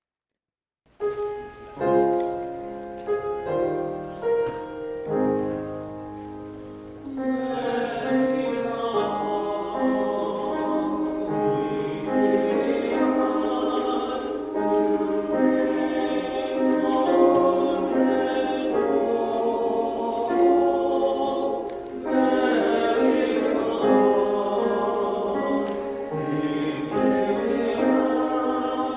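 Church choir singing with accompaniment, beginning after a brief silence, with a fuller sound from about seven seconds in.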